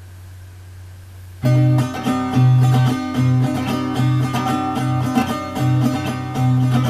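Acoustic guitar playing a song's introduction, coming in about a second and a half in with strummed chords over alternating bass notes, after a low steady hum.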